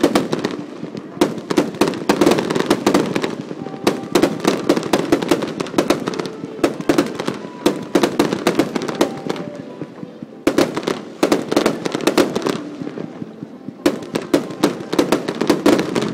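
Fireworks going off in rapid succession: dense volleys of bangs and crackles with short lulls between them, typical of a rapid-fire (hayauchi) sequence of aerial shells.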